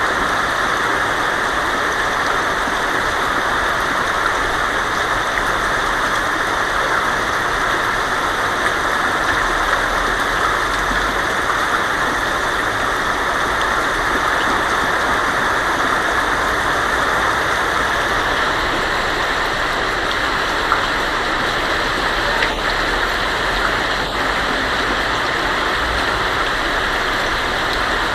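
Heavy rain drumming steadily on a tin roof, a dense, even patter with no break.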